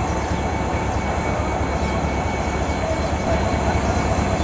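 Steady low rumble of a train standing at a station platform, with a faint steady whine above it.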